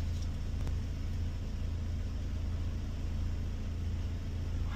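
Ford Transit recovery truck heard from inside the cab while driving: a steady low engine and road drone with no change in pace.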